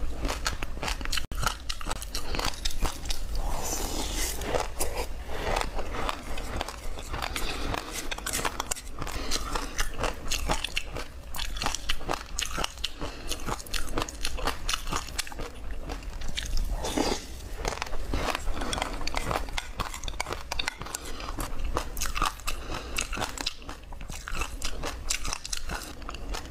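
Close-miked chewing of passion fruit pulp, the seeds cracking between the teeth in a dense run of small crunches and crackles.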